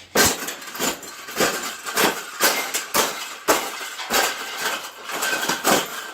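Wire bird cage being bent and folded into shape: repeated metallic clanks and rattles of the cage bars, about two a second.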